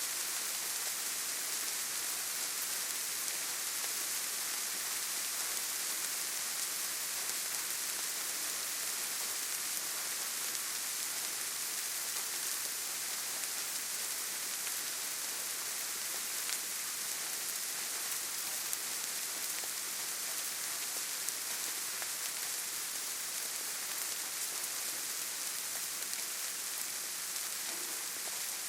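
Steady gentle rain falling on leaves, trees and forest ground: an even hiss with a few single drops ticking slightly louder.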